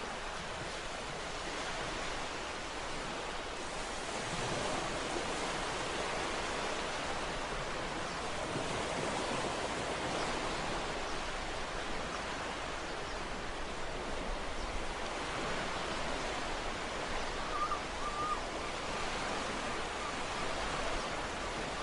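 Ocean surf washing steadily onto the shore, a continuous rushing with gentle swells in loudness. A brief faint chirp sounds near the end.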